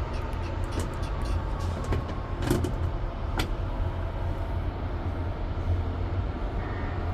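Steady low mechanical rumble, with two sharp clicks about two and a half and three and a half seconds in.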